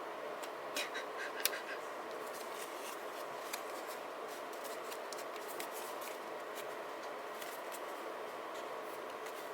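Small hand-crafting sounds of journaling supplies being handled: a few sharp clicks about a second in, then faint scattered ticks and light scratching, over a steady hiss.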